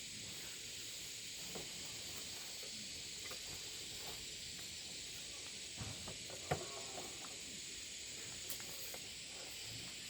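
Outdoor ambience: a steady high hiss with a few faint, short knocks, the loudest about six and a half seconds in.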